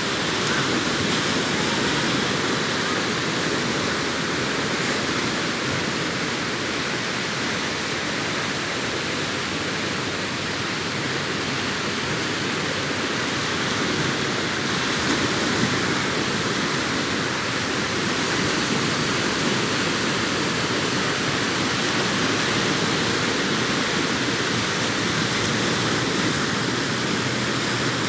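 Surf on a sandy beach: a steady rushing wash of breaking waves with only slight swells in loudness.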